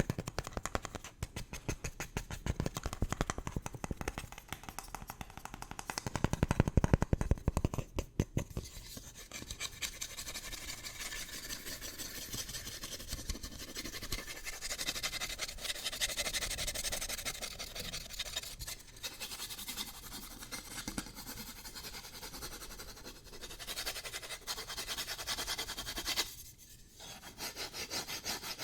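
Fast tapping on an object for about the first eight seconds, then quick, aggressive scratching that carries on with only a brief break near the end.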